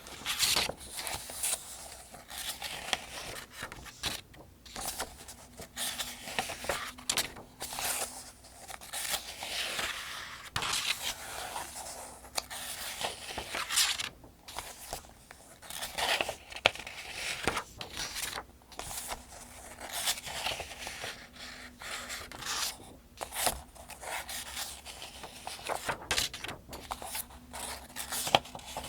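Paper pages of the 2025 Farmers' Almanac being turned one after another, each turn a dry papery swish and rustle. The turns come at a steady, rhythmic pace, a page roughly every two to three seconds.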